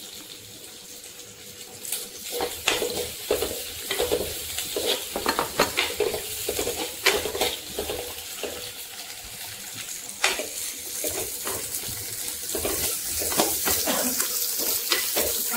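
Tempering frying in oil in a clay pot: a steady sizzle, with a spoon scraping and knocking against the pot as the garlic, dried red chillies and curry leaves are stirred, in many short strokes from about two seconds in.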